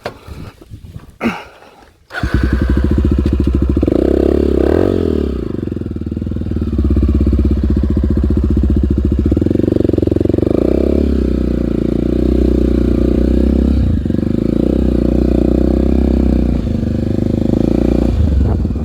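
Single-cylinder four-stroke Honda dirt bike engine that comes in suddenly about two seconds in, then runs steadily and loudly with brief throttle changes.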